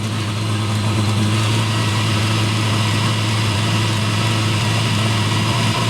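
Eberspacher D1L diesel heater running, its fan and burner giving a steady low hum with a rushing hiss over it. The heater is running badly, which the owner puts down to a fault in its controller.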